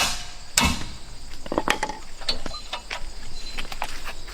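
Hammer blows on the truck's rear brake parts: a hard strike right at the start and another about half a second later, then lighter metallic taps and clinks as the loosened parts are worked.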